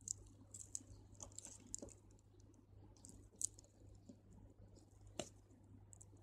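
Faint light clicks and scratches of crystal beads knocking together as beading line is drawn through them, with one sharper click about five seconds in.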